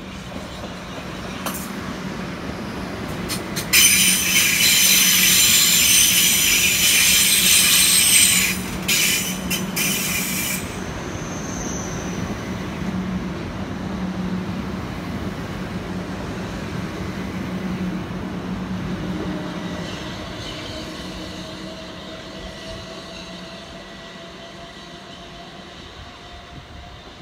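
Gatwick Express Class 387 Electrostar electric multiple unit running into the platform and braking, with a steady low hum and a loud high-pitched squeal from about four seconds in to about ten. A faint rising electric whine follows near the end.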